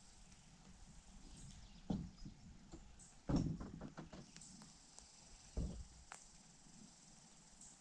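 Canoe being launched and boarded: three thumps and knocks on the hull, the loudest about three seconds in, with light clicks between them.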